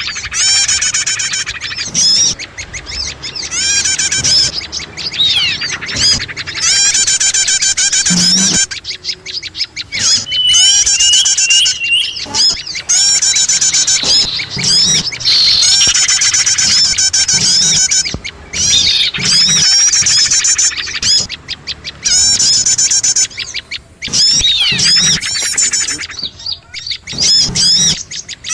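Small songbirds chirping and trilling in fast, dense, overlapping calls, with short gaps and a few brief high whistled notes: a bird-lure (pikat) call used to draw small birds in.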